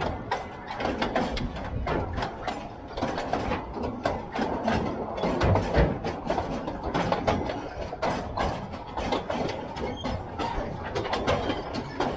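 Narrow-gauge train rattling and clattering along the track, with dense, irregular knocks and clicks over a steady rumble.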